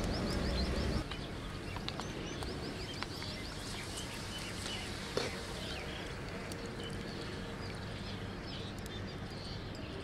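Rice-flour papad frying in hot oil: a steady sizzle with scattered crackles and one louder click about halfway. A bird chirps in quick short runs in the background.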